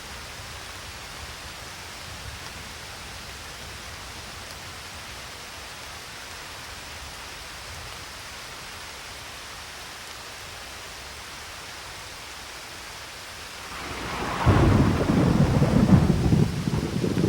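Steady rain hissing, then about fourteen seconds in a loud clap of thunder breaks in and rumbles on.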